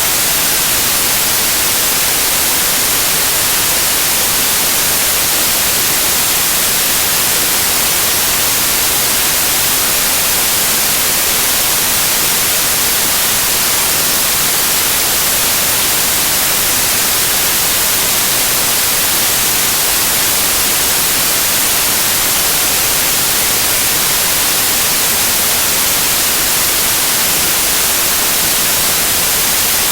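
Loud, steady white noise: an even hiss with no changes, brightest in the high end.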